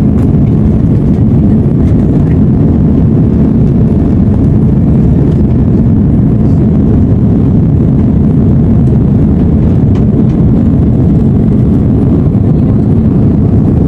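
Steady, loud low noise of an Airbus A330-343's Rolls-Royce Trent 700 engines and the rushing air, heard from inside the passenger cabin.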